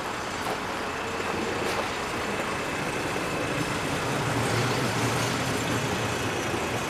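Outdoor road traffic noise: a steady rush of passing vehicles, with a vehicle engine's low hum swelling and fading a few seconds in.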